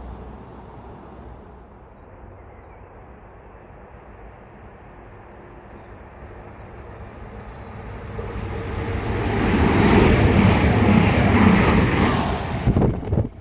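A train approaching and passing close by, building from a low rumble to a loud rush of wheel and engine noise about ten seconds in, then cutting off suddenly near the end.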